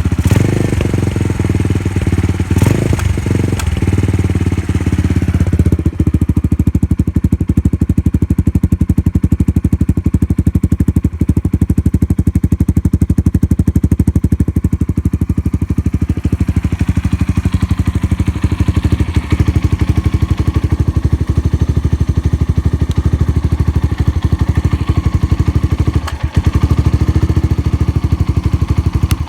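Suzuki Grasstracker's air-cooled single-cylinder engine idling through an aftermarket Supertrapp 4-inch megaphone full exhaust, running steadily with no abnormal noises.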